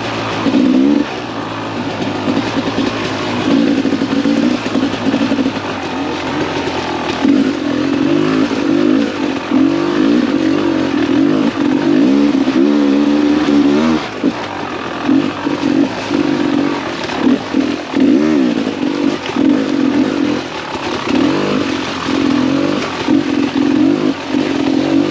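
Two-stroke engine of a 2017 Beta 300 RR enduro motorcycle being ridden, revving up and down over and over as the throttle is worked on and off.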